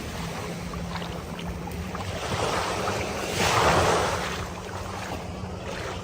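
Motorboat engine running with a steady low hum under rushing water and wind noise on the microphone; the water noise surges loudest about three and a half seconds in.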